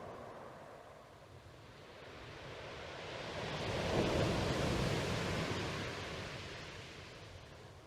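Ocean surf: a single wave swelling to a peak about halfway through and washing back out.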